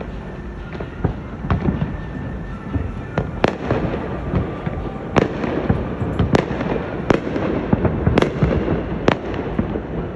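Fireworks going off: a string of sharp bangs and crackles over a continuous rumbling hiss. The bangs come thicker and louder from a few seconds in.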